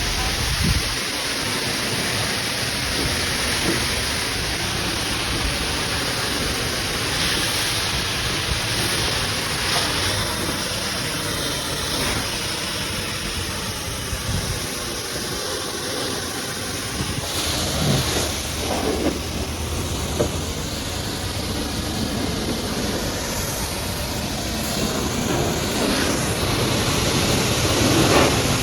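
A high-pressure washer's water jet spraying steadily onto a muddy truck, giving a continuous hissing rush.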